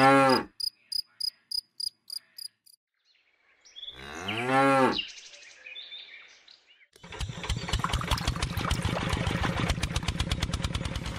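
A cow mooing twice, each moo about a second long and rising then falling in pitch, about four seconds apart, with a run of short high beeps after the first. From about seven seconds in, music with a fast beat.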